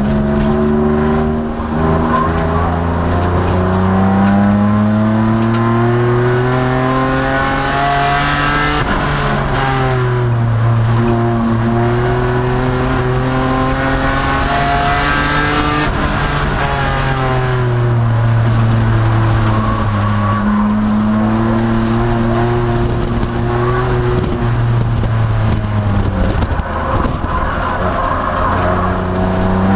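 2002 Nissan Maxima race car's 3.5-litre V6 heard from inside the cabin at full racing pace. The engine note repeatedly winds up in pitch through the gears and drops back when lifting or braking for corners, about three times.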